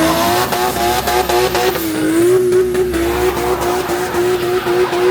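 Car engine held at high revs, its pitch climbing just before and then held nearly steady with slight dips, as in a drift-car spinning display, with tyres squealing.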